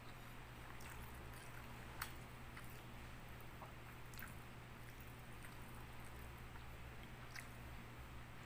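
Faint close-up eating sounds of rice and fish eaten by hand: soft chewing with scattered small clicks, the sharpest about two seconds in, over a steady low hum.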